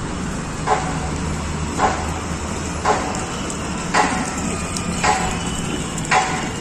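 A regular knock repeating about once a second, six times, over a steady low hum.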